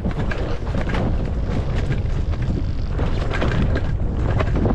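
Steady low rumble of wind buffeting the microphone, with a dirt bike's engine running underneath.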